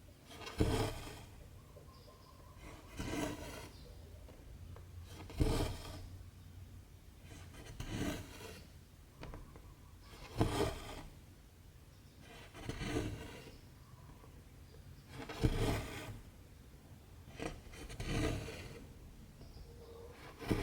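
Cotton embroidery thread being drawn through 14-count cross-stitch fabric, a soft rasp repeating about every two and a half seconds as each stitch is pulled through.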